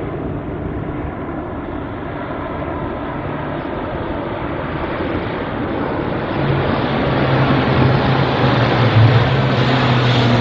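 Low-flying fixed-wing aircraft approaching, its engine noise growing steadily louder, with a steady low hum coming in about two-thirds of the way through.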